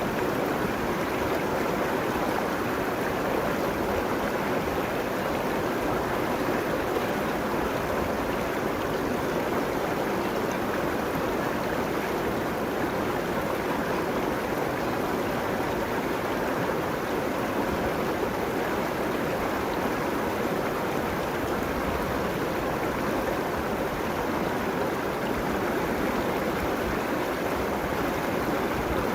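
River water flowing over its bed and along the banks: a steady, unbroken rush of running water.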